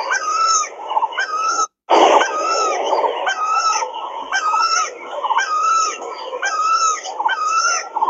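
Birds singing, the same short phrase repeating about once a second over a busy background chorus. The sound cuts out for a moment just under two seconds in, then comes back with a loud burst.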